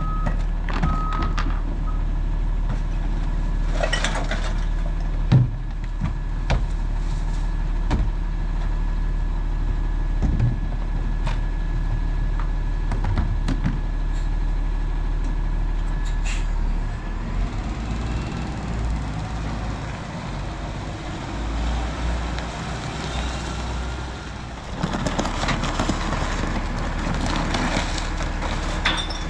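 Autocar ACX rear-loader garbage truck running, its engine humming steadily, with a few reversing beeps at the start and scattered knocks and bangs. The sound dips for a few seconds, then a loud stretch of clatter and rumble comes near the end.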